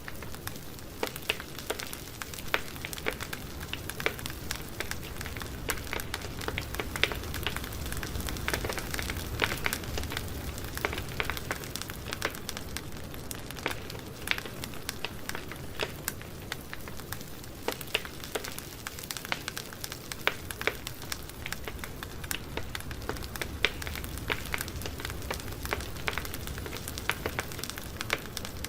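Wood campfire burning steadily, with a constant low rush of flames and many irregular sharp crackles and pops.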